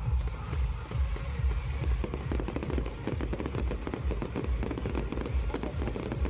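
Fireworks display: repeated low booms, joined about two seconds in by a dense, rapid crackling of many small bursts.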